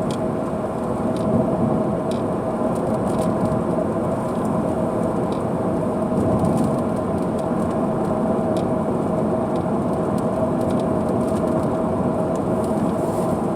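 A car driving through a heavy rainstorm: a steady rumble of rain and tyres on the wet road with a constant hum, and scattered sharp ticks throughout.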